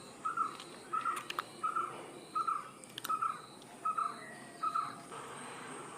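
A bird calling outdoors: a short, evenly repeated note, about eight times at a steady pace, stopping about five seconds in.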